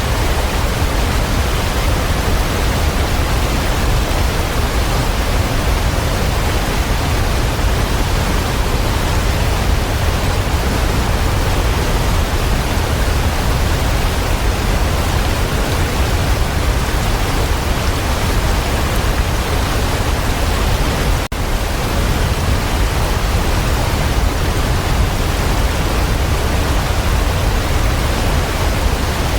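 Waterfall: a steady, loud rush of falling water with a deep low rumble, with one momentary drop in level about two-thirds of the way through.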